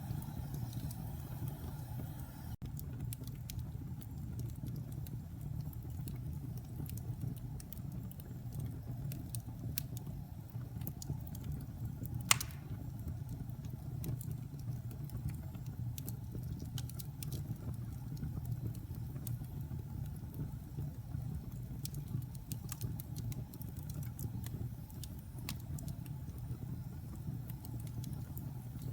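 Wood fire burning in a fireplace: a steady low rumble with scattered small crackles, and one louder pop a little before halfway.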